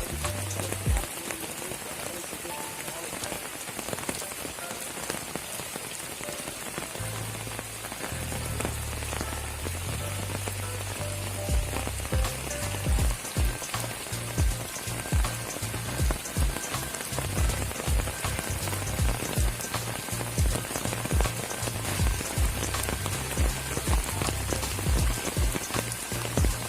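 Steady rain falling, a dense even hiss full of small drop ticks. From about seven seconds in, a low, regular bass beat comes in underneath and gives the loudest moments.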